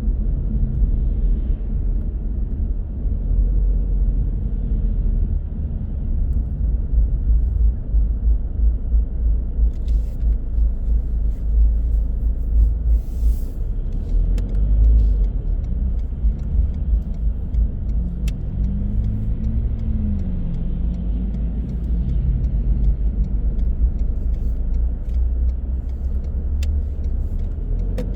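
Car driving on the road: a steady low rumble of engine and tyres, with scattered light clicks. A brief engine-like tone rises and falls about two-thirds of the way through.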